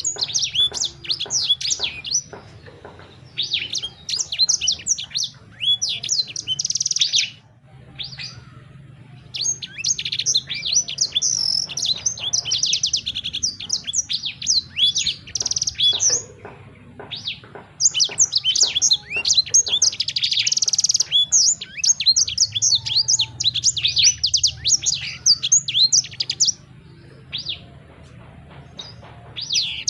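A songbird singing fast runs of high chirps and trills in bursts, with brief pauses between phrases.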